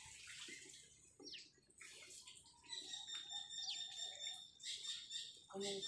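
Birds chirping: many short high chirps and quick falling whistles, with a steadier high trill in the middle. A brief lower sound near the end is the loudest moment.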